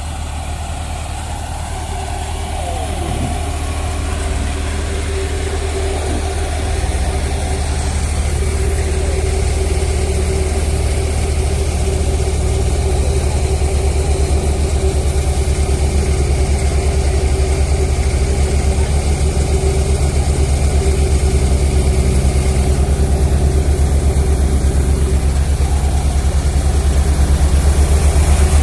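Heavy vehicle engine running steadily with a low, even pulse, growing gradually louder, with a brief falling whine about two to three seconds in.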